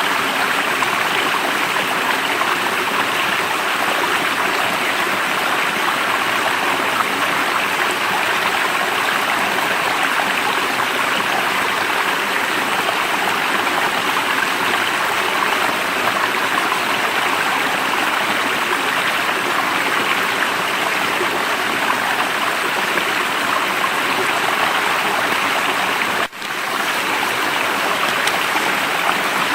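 Running water of a stream, a steady rushing flow with no let-up, broken only by a momentary dropout near the end.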